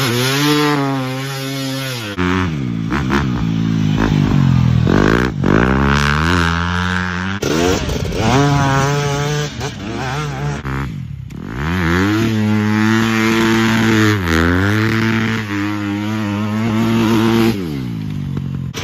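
Dirt bike engine running under throttle, its pitch repeatedly rising, holding and dropping as it revs up and backs off, with a couple of brief drops.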